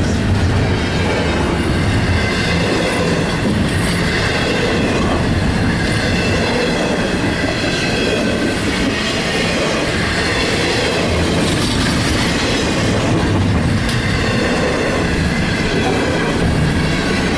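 Train rolling steadily past at close range: a continuous rumble of wheels on rail, with a faint high squeal from the wheels.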